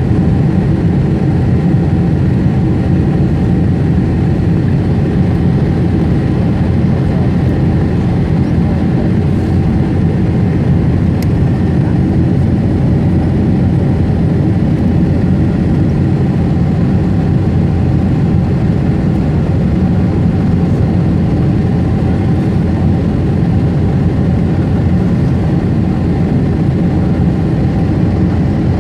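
Steady engine and airflow noise heard inside the passenger cabin of a Boeing 747-8 airliner, a loud, even rumble with a faint steady hum over it.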